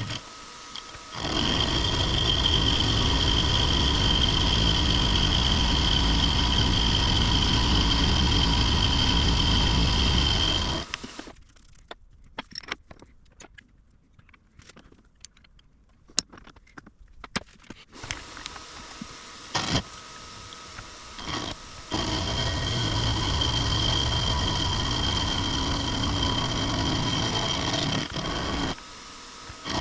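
Benchtop milling machine spindle running with a steady high whine, then switched off about eleven seconds in. Scattered clicks and metal knocks follow as the workpiece is repositioned in the vise, and the spindle runs again from about twenty-two seconds in, stopping and restarting briefly near the end.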